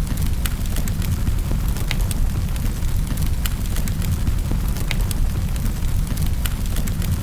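Wood fire crackling in a fireplace: irregular sharp pops and snaps, a few a second, over a steady low rumble of the burning fire.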